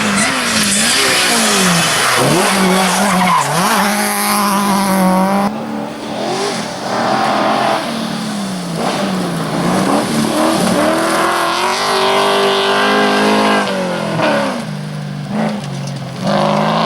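Rally cars at full effort on a stage: engines revving hard, their pitch rising and dropping with gear changes and lifts, over tyre and road noise. About five and a half seconds in, the sound cuts abruptly to another car.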